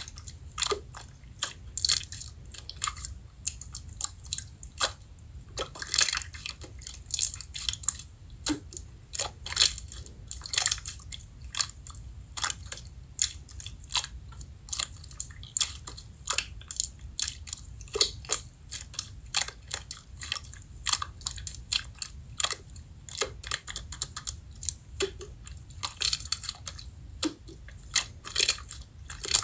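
Slime being pressed and squished by hand, making dense, irregular crackling clicks and small pops.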